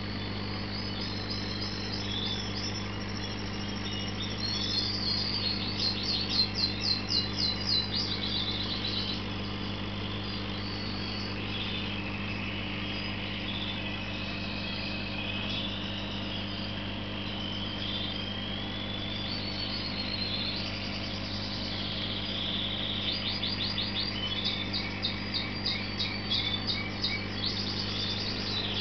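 Birds chirping, with bursts of rapid trills a few seconds in and again in the last few seconds, over a steady low hum.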